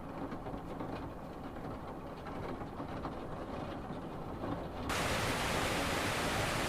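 Steady low rumbling noise of rain and traffic. About five seconds in it cuts sharply to a louder, brighter, even hiss of pouring rainwater.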